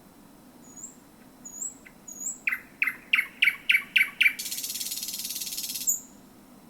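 Thrush nightingale singing close by: a few soft high notes, then a run of about seven loud, sharp repeated notes at roughly four a second, running straight into a dry rattling trill about a second and a half long.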